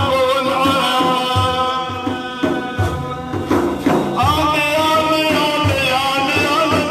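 A man singing an Islamic devotional praise song (madih) in a wavering, ornamented melody over regular hand-drum beats.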